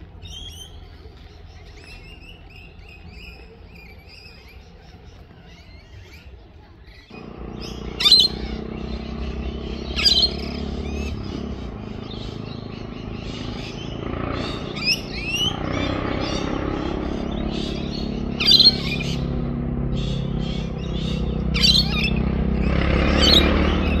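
Wild birds chirping and calling, with several loud sharp calls. About seven seconds in, a deeper steady background noise comes in abruptly and the overall level rises.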